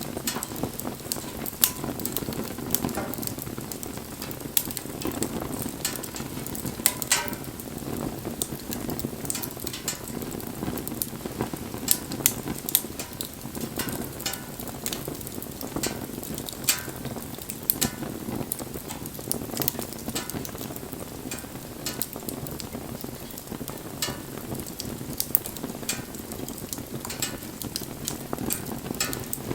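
Wood bonfire crackling: a steady rush of burning with frequent irregular sharp pops and snaps.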